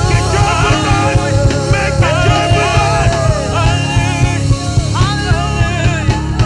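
Loud live praise-and-worship music from a full band, with a bending melody line over a steady low beat.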